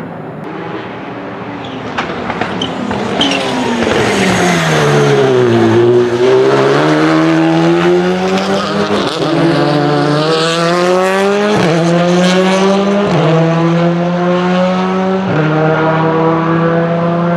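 Rally car engine slowing with its note falling, then accelerating hard through four upshifts, each a sudden drop in pitch followed by a steady climb.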